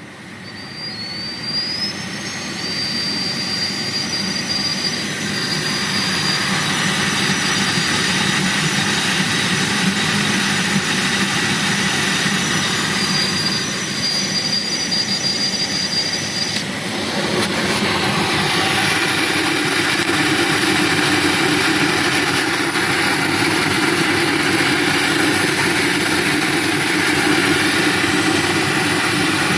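Skoda Octavia A5 heater blower fan spinning up and running with a steady rush of air, carrying a thin high whistle that rises at first and then holds steady: the heater-fan whistle fault. Just past halfway the whistle cuts off abruptly and the rushing sound changes and grows a little louder.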